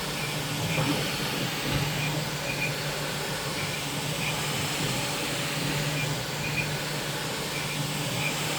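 Bambu Lab 3D printer running with a steady fan-like hiss, a low hum that comes and goes, and short high chirps about once a second: the strange noise the owner cannot explain after only 300 hours of printing.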